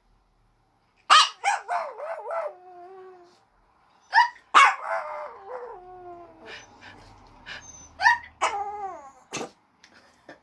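Small dog howling at a person's hiccups in three bouts. Each bout is a few sharp yips that slide into a longer howl falling in pitch.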